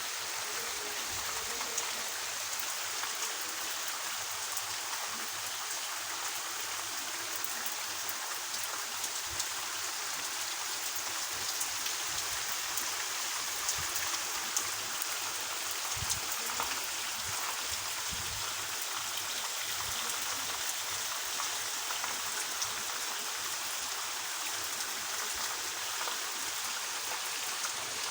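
Steady rain falling, an even hiss with many small drop ticks and occasional heavier drips scattered through it.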